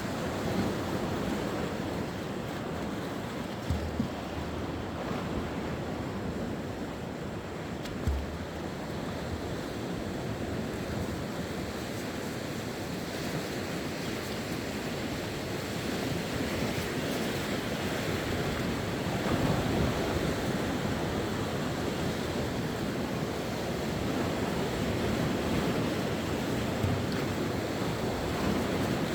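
Sea waves washing onto the shore in a continuous surf that swells louder around the middle and later on. Wind buffets the microphone with a couple of brief low thumps in the first ten seconds.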